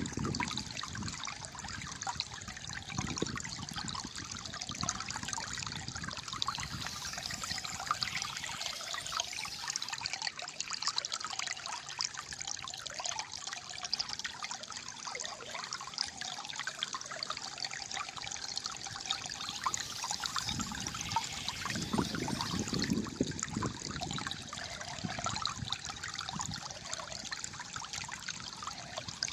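Water flowing and trickling in a small stream, a steady gurgling wash, with deeper gurgles at the start and again about two-thirds of the way through.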